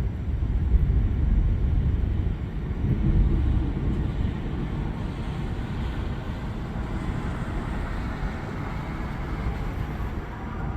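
Thunder rumbling low and rolling, strongest in the first few seconds, then easing into a steady storm hiss.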